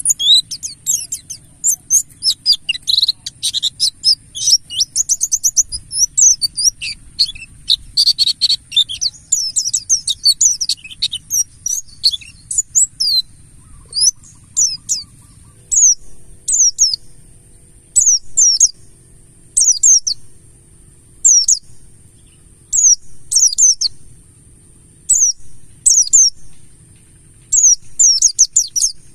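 Buxtoni white-eye (pleci) singing: a fast, dense high twitter for the first half, then sparser short high chirps in twos and threes every second or two.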